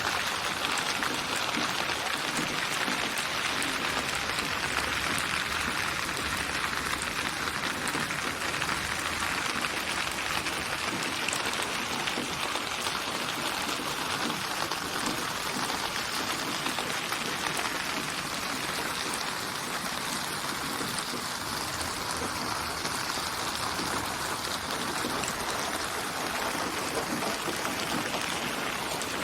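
Steady rain falling, a continuous even hiss of raindrops mixed as a relaxation white-noise track.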